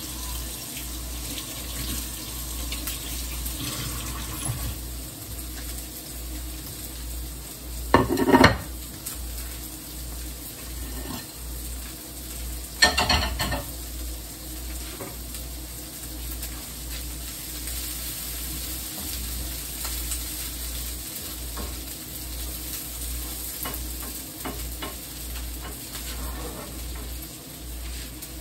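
Chopped chicken sizzling steadily in a pan on a stovetop burner, with two brief louder clatters about eight and thirteen seconds in.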